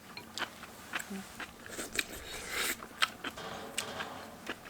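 Close-up eating sounds: chewing and biting on pork backbone stew, with scattered sharp clicks and a short hissing patch a little past two seconds in.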